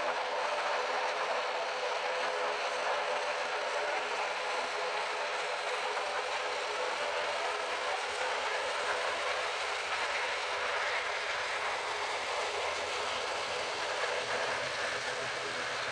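Jet airliner engines running steadily: an even rushing hiss with a hum of several steady tones underneath, and no sudden changes.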